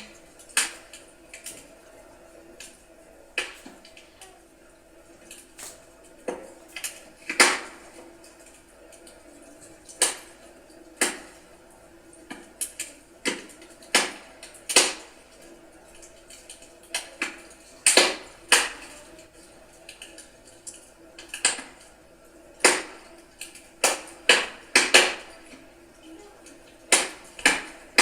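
Wood fire crackling: burning firewood giving off irregular sharp pops and snaps, some clustered close together, over a low steady hiss.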